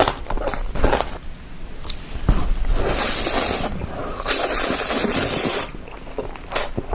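Close-up eating and food-handling sounds: scraping and squishing with scattered clicks, and a steady hiss from about three seconds in to nearly six.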